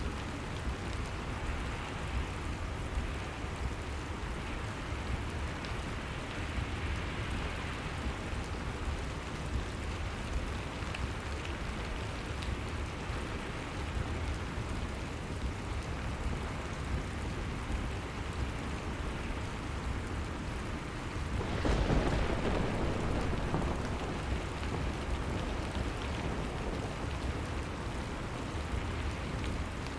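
Steady rain falling, an even hiss of drops on surfaces. About two-thirds of the way in it swells louder and deeper for a couple of seconds, then settles back to a steady fall.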